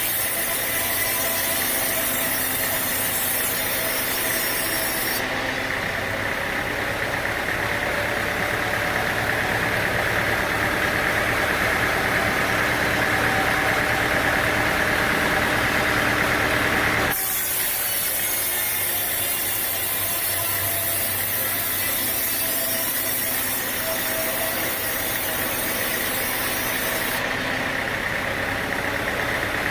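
Sawmill machinery running while sawing teak logs: steady engine and saw noise that changes abruptly about five, seventeen and twenty-seven seconds in.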